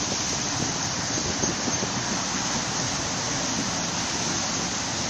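Steady rushing rumble of a Sydney train's wheels rolling along the track through the station, even in level throughout.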